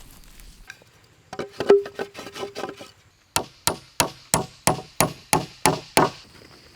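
A run of irregular knocks, then nine sharp, evenly spaced strikes about three a second that stop abruptly, like repeated blows of a tool.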